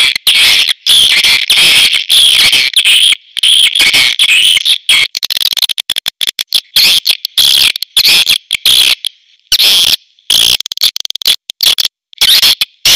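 Swiftlet calls: rapid high twittering chirps in quick runs, broken by short gaps. A recorded swiftlet call of the kind played as a lure to draw swiftlets into a nesting house.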